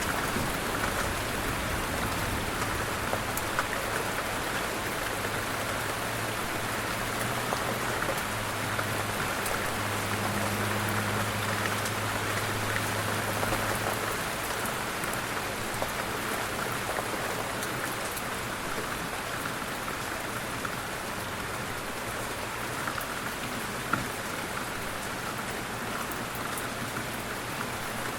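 Light rain falling steadily, with scattered ticks of individual drops hitting a surface. A low steady hum sits underneath for the first half and fades out, and a single sharper drop tick stands out near the end.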